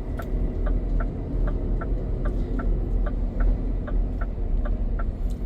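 Turn-signal indicator ticking evenly in a Scania truck cab, a little over two ticks a second, over the steady low rumble of the diesel engine.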